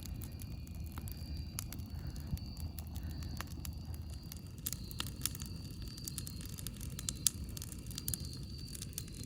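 Wood campfire crackling: scattered sharp pops and snaps over a steady low rumble, with one louder pop late on.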